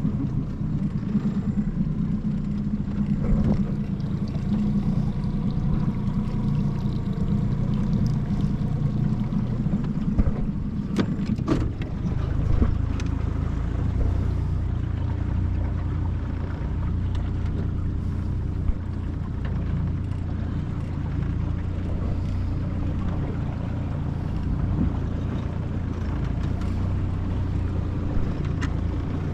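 25 hp Mercury four-stroke outboard motor running steadily as the jon boat moves across the water. A few sharp knocks come about eleven seconds in, and from about twelve seconds the engine's drone settles to a lower, deeper note.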